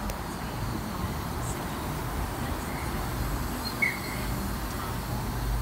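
Tangara electric suburban train rolling slowly into the platform, a steady low rumble, with one short high chirp about four seconds in.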